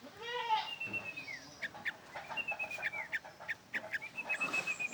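Young yellow-vented bulbuls calling. There are thin, high whistled notes that hold and then slide down at the end, with short sharp chips between them. A lower, harsher call comes near the start.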